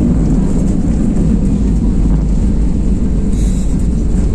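Steady, loud, low drone of a passenger airplane's engines and airflow, heard from inside the cabin.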